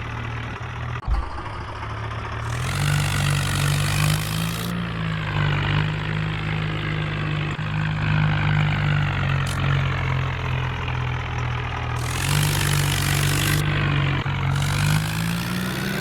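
Tractor engine running and revving, its pitch rising about two and a half seconds in and again near the end, with a single knock about a second in.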